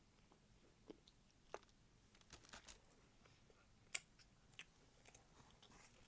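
Faint sounds of a person chewing food, with soft crunches and a few short sharp clicks, the loudest about four seconds in.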